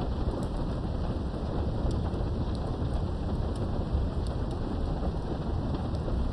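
Steady rain heard through a window, muffled, with a continuous low rumble of thunder underneath and faint scattered drop ticks. No single thunderclap stands out.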